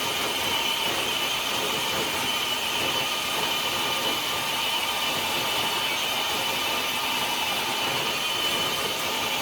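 RC crawler truck's electric motor and geartrain whining steadily as it drags the weighted pull sled across concrete.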